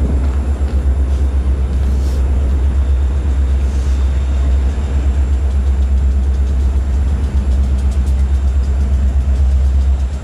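Steady deep rumble of an approaching diesel freight train's locomotives, still far off.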